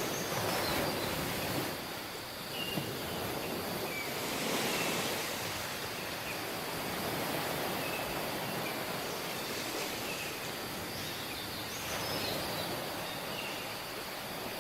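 Waves washing onto a tropical beach, the surf swelling and easing every few seconds, with scattered short high chirps over it.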